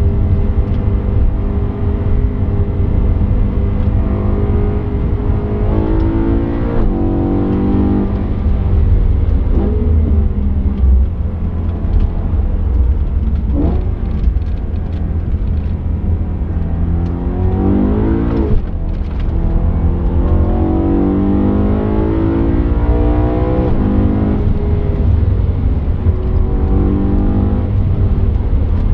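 BMW M3 E92's 4.0-litre V8 heard from inside the cabin at full throttle, its revs rising and dropping back several times as it pulls through the gears, over a heavy steady low rumble.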